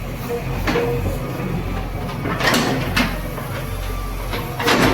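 JCB 3DX backhoe loader's diesel engine running steadily, with several short knocks and crashes of its bucket and falling rubble. The loudest comes near the end.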